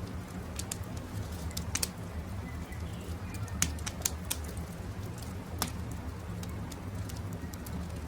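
Wood campfire crackling, with irregular sharp pops and snaps over a steady low rumble, and faint bird calls behind it.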